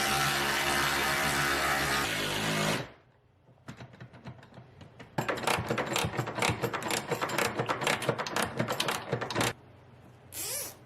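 A power tool motor runs steadily and cuts off suddenly about three seconds in. After a pause, a long run of rapid mechanical clicking follows for about four seconds, with a short scraping burst near the end. These are the sounds of a work-light bracket being fastened to a wall stud.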